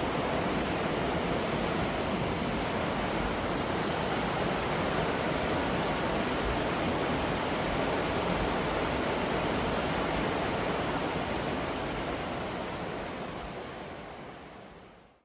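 Waterfall rushing steadily, a dense even roar of falling water that fades out over the last few seconds.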